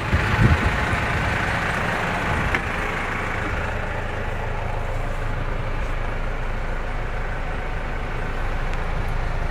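Detroit DD5 5.1-litre four-cylinder diesel in a Freightliner M2 box truck idling steadily.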